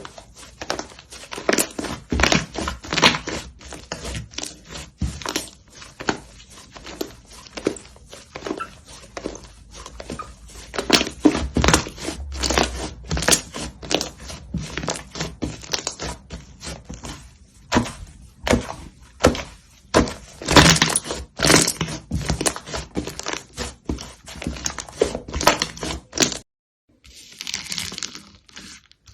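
Slime being squished and pressed by hand close to the microphone, giving a dense run of irregular sticky clicks, pops and crackles. There is a brief break near the end before another stretch of squishing begins.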